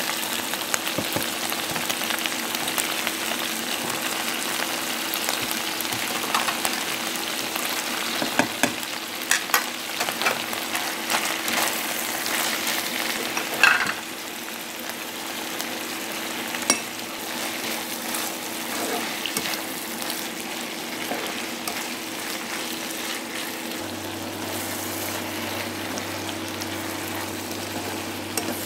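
Chicken hearts sizzling in hot oil in a non-stick wok as sliced tomatoes, then onions, green chillies and ginger are tipped in and stirred, with scattered sharp clicks and knocks against the pan. The sizzle drops a little about halfway through, right after a louder knock, and a faint steady hum runs underneath.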